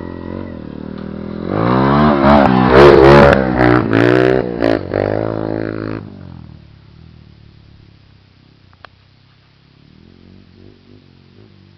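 Motocross dirt bike engine revving hard close by, its pitch climbing and dropping several times as the rider works the throttle and gears, then fading away about six seconds in to a faint distant drone.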